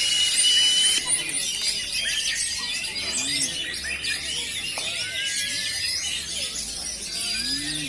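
Many caged oriental magpie-robins (kacer) singing at once in a songbird contest: a dense, overlapping stream of whistles, chirps and rapid glides, with a strong held whistle in the first second.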